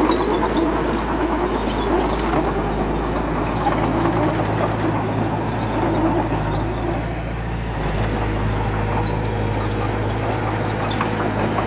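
Diesel engine of heavy earthmoving machinery running steadily, its note shifting a little a few times as the load changes, with a few light metallic clicks near the start.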